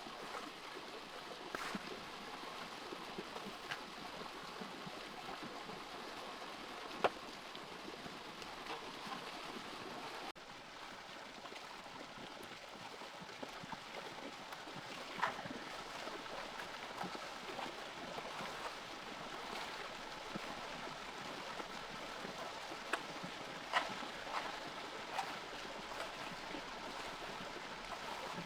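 Flowing water: a steady wash with scattered small clicks and ticks.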